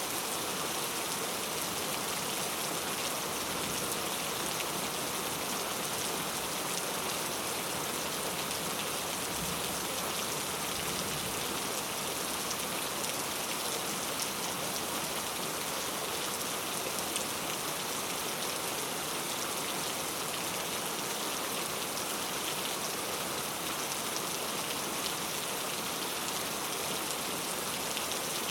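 Steady rain falling and pattering on surfaces, an even hiss with fine scattered drop sounds.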